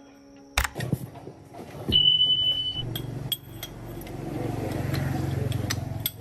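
An engine running with a low pulsing hum that swells and then eases off, preceded by a few knocks and clicks.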